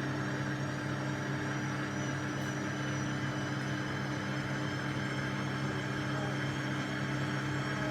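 Washing machine running with a steady, even motor hum.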